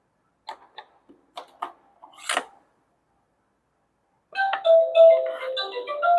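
A few light plastic clicks and knocks, then about four seconds in a bright electronic chiming tune of short notes, like a doorbell jingle, starts up.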